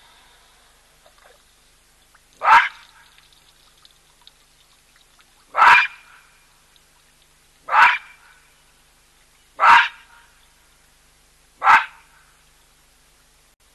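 Baboon giving loud barking calls, five single barks about two seconds apart.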